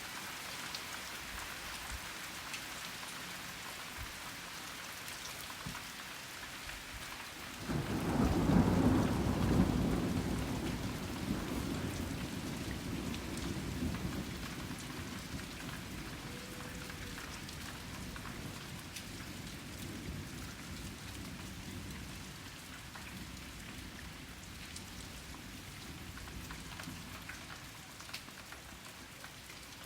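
Steady rain falling throughout, with a clap of thunder breaking suddenly about a quarter of the way in, loudest for a couple of seconds, then rolling on as a low rumble that slowly fades away.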